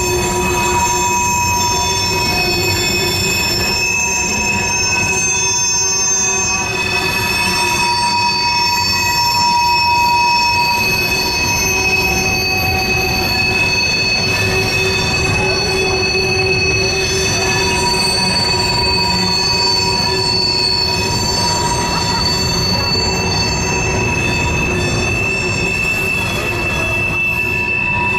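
Freight train of BNSF covered hopper grain cars rolling steadily across a railroad bridge: a continuous rumble of wheels under several sustained high-pitched wheel squeals.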